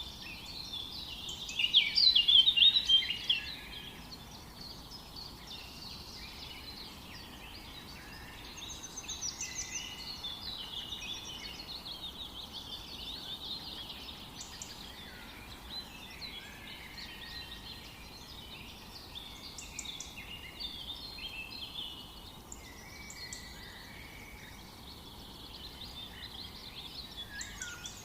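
Several birds singing and chirping together in a forest chorus, with overlapping trills and quick chirps; one burst of rapid high trills about two seconds in is the loudest. A faint steady hiss lies underneath.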